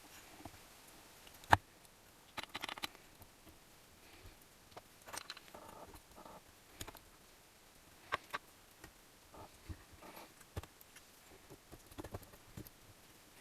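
Hand tools and small metal engine parts handled on a workbench during engine assembly: scattered clicks and knocks, one sharp click about one and a half seconds in, with short bursts of rustling.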